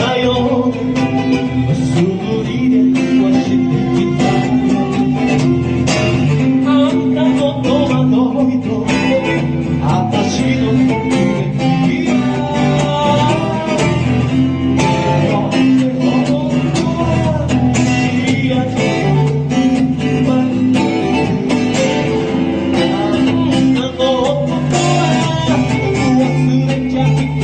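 A band playing a song live, with guitar prominent over a steady bass.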